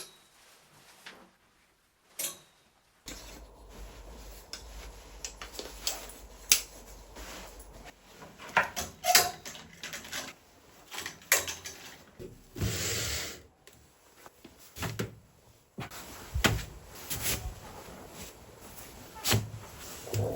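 Knocks, clacks and rustles of things being handled and put away while a closet is being organized, with drawer or cupboard sounds. A longer rustle comes about two-thirds of the way through.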